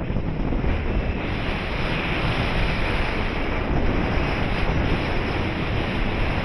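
Wind noise from the paraglider's airflow buffeting the camera microphone in flight: a steady, loud rush, growing slightly fuller about a second in.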